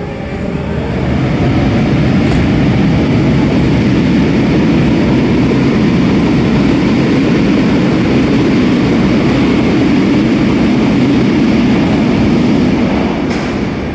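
RER A double-deck electric commuter train running through the underground station, a steady loud rumble of wheels and traction motors that builds about a second in and eases near the end.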